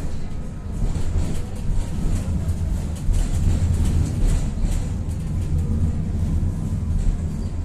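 Tatra-Yug K1M tram running along the track, heard from inside: a steady low rumble with light rattles and clicks from the car body and wheels.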